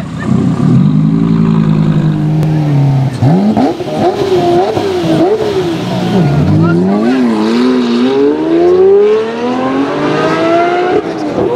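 Audi R8 GT's V10 engine running with its pitch falling. From about three seconds in, a white Lamborghini Murciélago roadster's V12 is revved in several quick blips, then accelerates with its pitch rising steadily.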